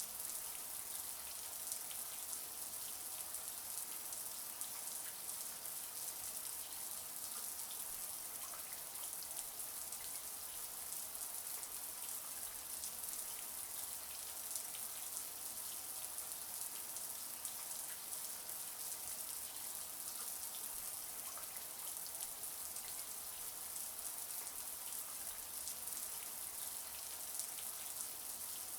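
Shower water running steadily, spray pattering on a surface as an even high hiss with fine drops.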